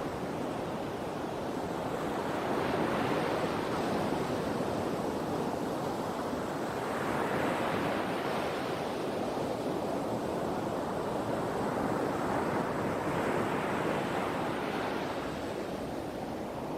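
Sea waves breaking and washing ashore: a steady rush of surf that swells and ebbs about every five to six seconds.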